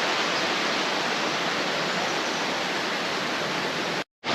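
Steady rushing water of a rainforest creek waterfall, an even roar that breaks off abruptly near the end.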